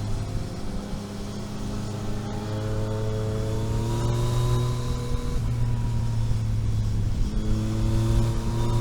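Road vehicle engine heard onboard while driving, the note climbing steadily as it accelerates. About halfway through the note breaks and drops, then picks up and climbs again.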